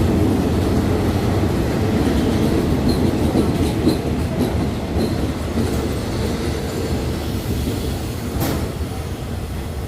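Train running past on the rails, a steady rumble that slowly fades. One sharp click about eight and a half seconds in.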